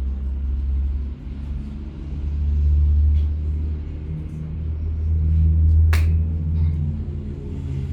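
Deep low rumble that swells twice and eases, with faint pitched tones held underneath and a single sharp click about six seconds in.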